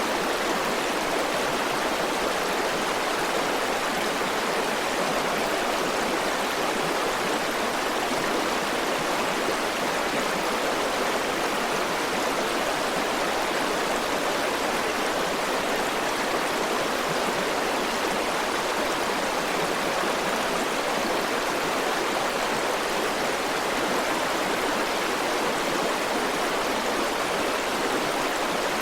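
River water flowing steadily over stones: an even, unbroken rushing with no distinct splashes.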